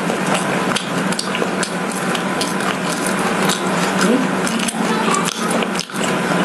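Close-miked chewing of a crumb-coated fried glutinous rice cake with red bean paste filling: a continuous run of sticky, wet mouth clicks and small crackles.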